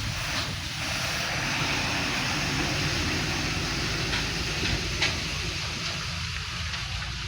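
Road traffic noise: a steady low rumble with tyre and engine hiss from vehicles passing on the road, swelling slightly in the middle and easing near the end.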